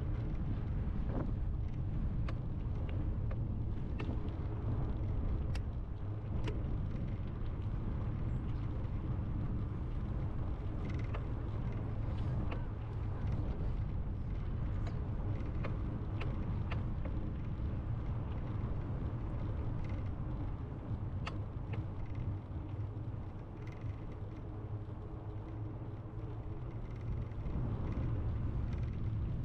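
Steady low rumble of wind on the microphone during a bicycle ride, with road noise and scattered light clicks.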